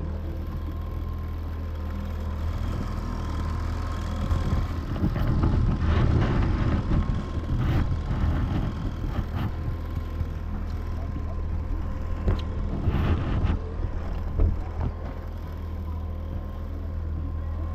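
Outboard motor running steadily at trolling speed, a constant low hum. Louder rushing noise swells in around six seconds and again around thirteen seconds, with a few sharp knocks.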